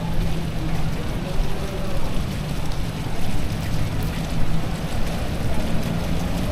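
Steady hiss of heavy typhoon rain falling on wet pavement, over a steady low hum.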